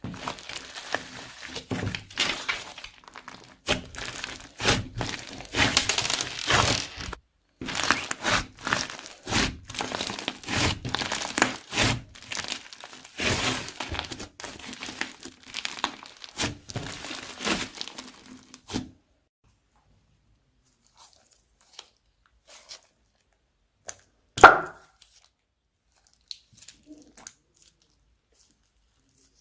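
Plastic bags of slime crinkling and crackling as they are handled and squeezed, in dense rapid bursts that stop about two-thirds of the way through. After a pause there is one sharp, loud click.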